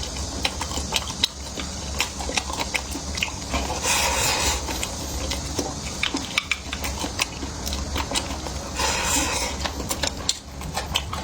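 Close-miked eating sounds: chewing with many small sharp clicks and taps of utensils on dishes, and two louder, noisier stretches about four and nine seconds in.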